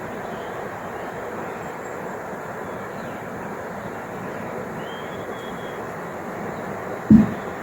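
Steady rushing noise like distant traffic or wind, with a single low thump about seven seconds in.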